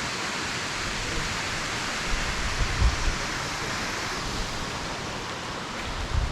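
Steady, even rush of a tall waterfall's water pouring down a shale gorge, with a low thump about three seconds in and again near the end.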